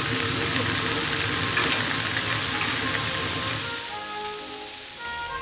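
Pork belly and kimchi sizzling on a hot griddle heated by a wood fire, a dense crackling hiss. Near the end the sizzle fades and music comes in.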